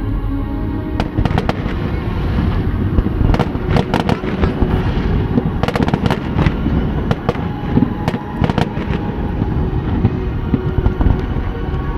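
Fireworks display going off continuously: a dense, loud rumble of shell bursts with many sharp bangs and crackles.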